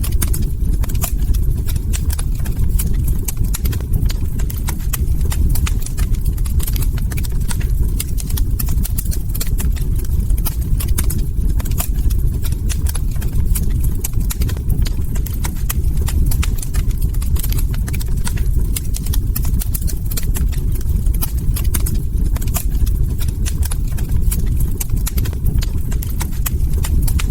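Log fire crackling: a dense, irregular run of small pops and snaps over a steady low rumble of burning.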